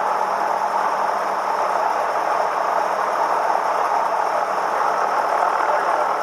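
Cessna 172M's four-cylinder Lycoming O-320 engine and propeller running, a constant steady drone.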